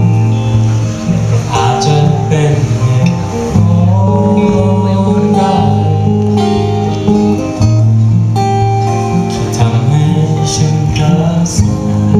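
Live music led by strummed acoustic guitar, playing steadily.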